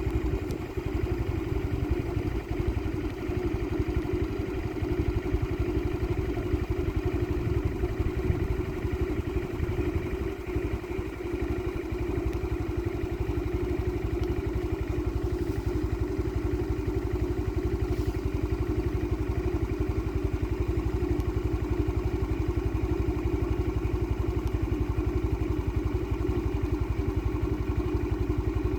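A steady motor drone, even and unchanging, with a low rumble beneath it.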